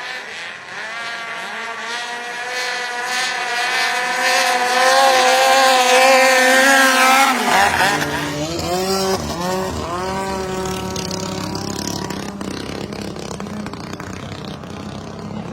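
High-revving engine pulling hard, its pitch climbing steadily for about seven seconds, then the throttle comes off: the pitch falls sharply and wavers before settling into a steady lower drone.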